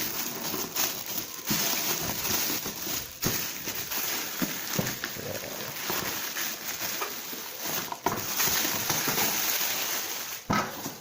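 Plastic and cardboard packaging rustling and crinkling as a parcel is unwrapped by hand, with many small crackles and handling knocks.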